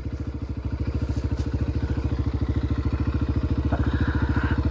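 Yamaha dirt bike engine idling with a steady, even putter.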